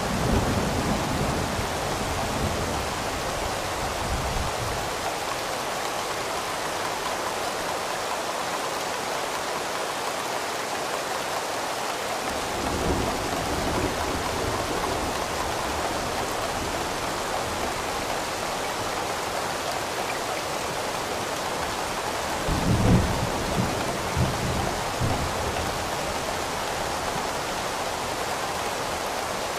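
Steady heavy rain with thunder rumbling low in the background: one roll fades out over the first few seconds, a fainter one comes about halfway through, and the loudest rolls a little over three-quarters of the way in.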